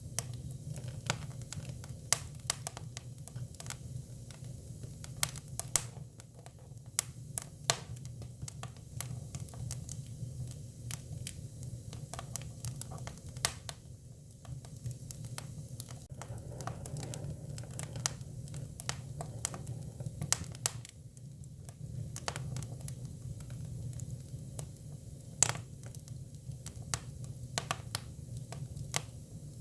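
Hinoki cypress firewood burning, crackling with irregular sharp pops over a steady low hum.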